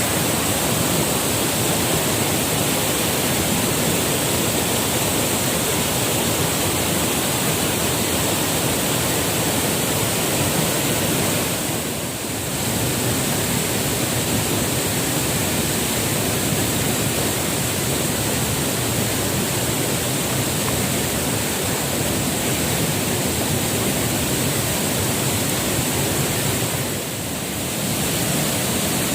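Waterfall close by: a loud, steady rush of falling water that dips briefly twice.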